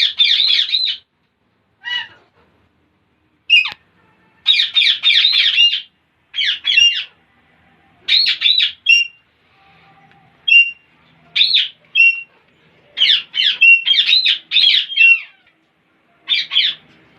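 Parrots calling in a string of short, high bouts of rapid chattering notes, each bout under about a second and a half, with brief pauses between them.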